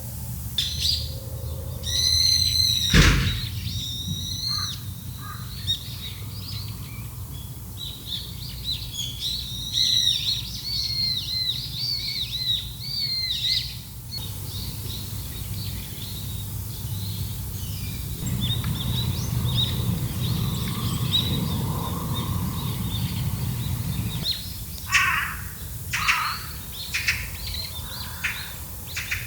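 Small birds chirping and calling in quick runs of short notes, over a steady low rumble; a single sharp knock about three seconds in.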